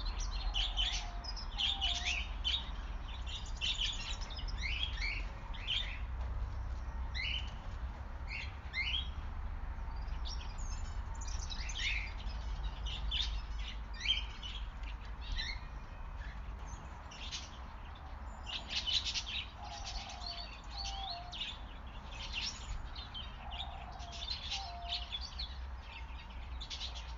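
Birds chirping: clusters of short, quick, high chirps, with a few lower short notes, over a steady low rumble.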